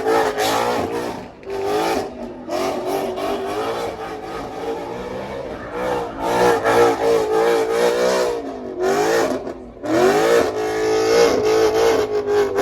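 Car engine revving hard and held at high revs, its pitch rising and falling, with a few brief drops in revs and a fresh rising rev about ten seconds in.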